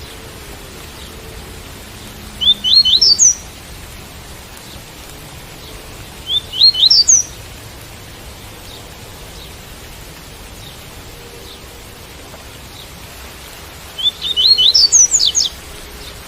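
Double-collared seedeater (coleiro) singing its tui-tui song type: three short phrases of quick rising notes, about 2.5, 6 and 14 seconds in, the last one longest. The phrases sit over a steady hiss of rain.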